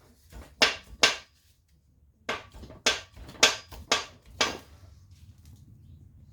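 Sharp knocks of a tool striking engine parts: two blows, then after a pause five more in an even run about half a second apart.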